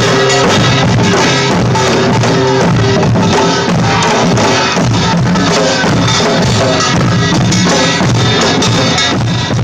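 Live band music played loud and steadily, with a drum kit beating a regular rhythm of bass drum and snare under pitched instruments.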